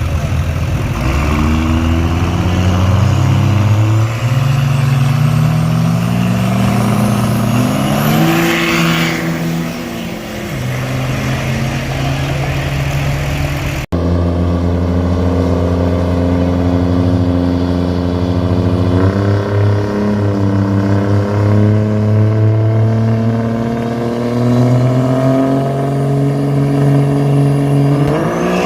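Diesel truck engines revving hard under acceleration. The pitch climbs and drops back in steps as they shift through the gears, with a sudden cut near the middle to a second run.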